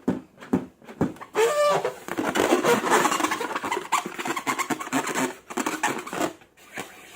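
Slime and a long rubber balloon being squeezed and worked by hand: a short rubbery squeal about one and a half seconds in, then a sticky, crackling squish that fades near the end.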